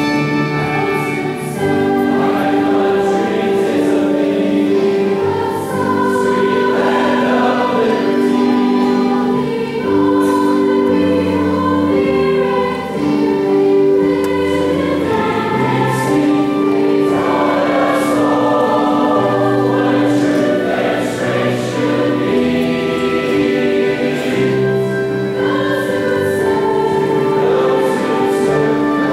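A choir singing with orchestral accompaniment, in long held notes.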